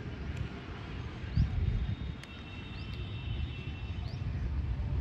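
Outdoor ambience: small birds chirping, short rising chirps repeating every second or so, over a constant low rumble. About two seconds in, a thin steady high whistle holds for under two seconds.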